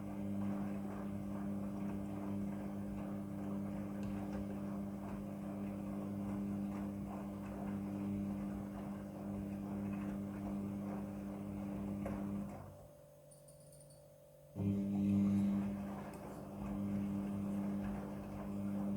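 Midea front-loading washing machine running its wash cycle: a steady motor hum as the drum turns. About two-thirds of the way through, the motor cuts out for about two seconds, then starts again with a louder surge, as the drum pauses and reverses direction.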